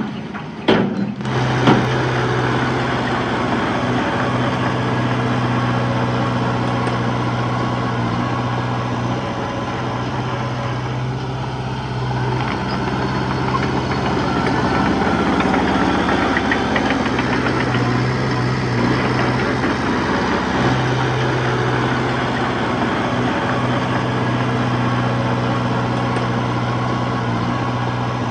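Diesel engine of heavy earthmoving machinery running continuously, its note dropping and recovering under changing load around the middle. A few sharp knocks come in the first two seconds.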